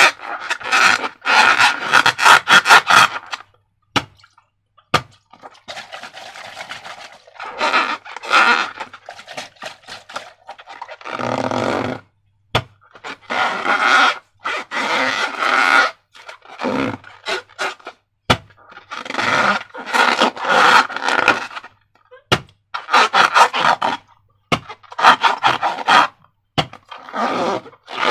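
Slime being worked by hand: repeated bursts of sticky crackling and squelching, each a second or few long, with silent gaps between them.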